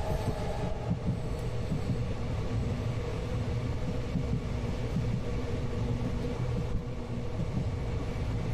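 Passenger train running, heard from inside the carriage: a steady low rumble of wheels on the rails, with a faint steady tone above it.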